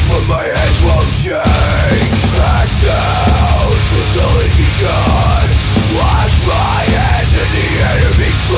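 Loud heavy metal music from a live band, with a heavy low end and a bending pitched line above it.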